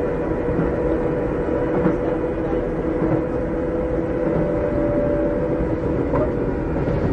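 Interior running sound of a Keikyu old 600 series (second-generation) electric car with Toyo Electric traction equipment: a steady hum from the motors and gears over the rumble of the wheels while the train runs at speed, the pitch easing slightly down near the end.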